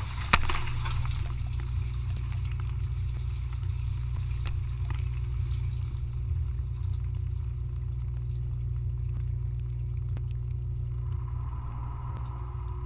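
Dishwasher running through its cycle: a steady low motor hum with water sloshing inside, and one sharp click just after the start.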